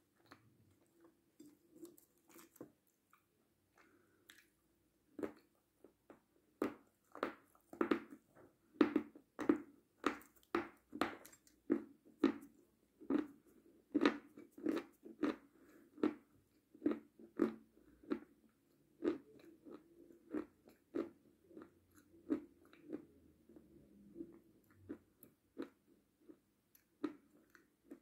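Close-up crunchy chewing of chocolate candy, mouth closed, at a steady pace of about two chews a second. The chewing is louder in the first half and softer toward the end.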